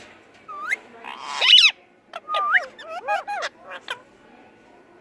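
Ringneck parakeet chattering: a string of short whistled calls that slide up and down in pitch, the loudest about a second and a half in, stopping about four seconds in.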